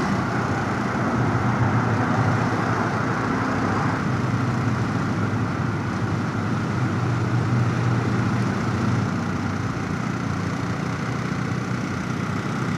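Motorcycle engine running steadily under way, heard with rushing wind noise on a helmet chin-mounted camera.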